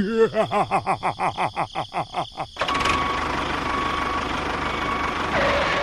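An engine chugging about five times a second for a couple of seconds, then running steadily with a noisy rumble that cuts off suddenly.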